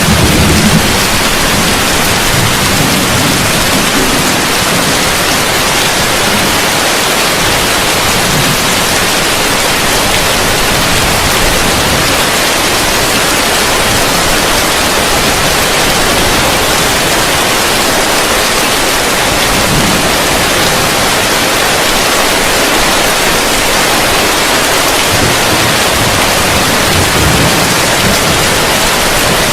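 Heavy rain falling on a roof, a dense, steady hiss, with brief low rumbles near the start and again twice in the second half.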